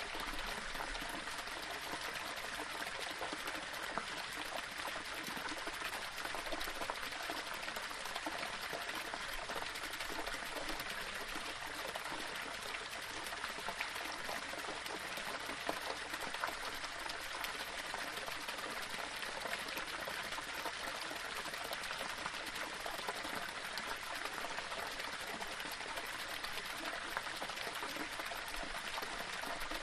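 Small waterfall splashing and running over stones, a steady, unbroken rush of water.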